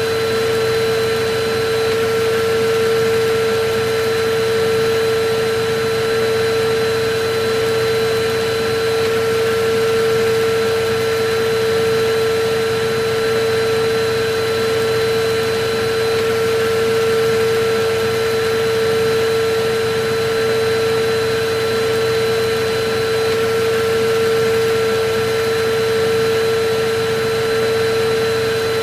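Electric vacuum cleaner running steadily: a constant motor whine over a rush of air, with a slight slow rise and fall in level.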